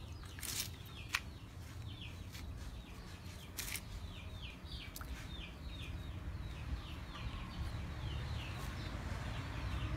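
A bird calling over and over in short falling chirps, about three a second, with a few sharp knocks and clinks of metal cookware being handled, over a low rumble.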